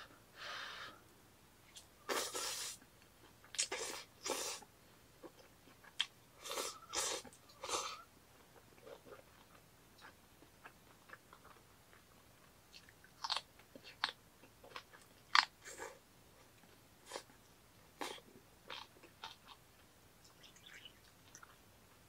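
Close-up eating sounds: a person chewing a mouthful of stir-fried noodles and beef tripe, in irregular bursts, with sharp clicks of chopsticks against a metal bowl, the loudest about fifteen seconds in.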